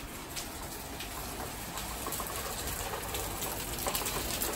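Steady rain falling on a wooden deck and garden plants, a dense patter of drops that grows louder toward the end.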